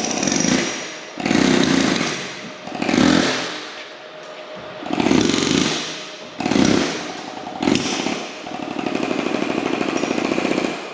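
A loud rattling tool working on the excavator's steel pins in repeated short bursts, then one steadier rapid rattle near the end. The sound is likened to an engine knocking.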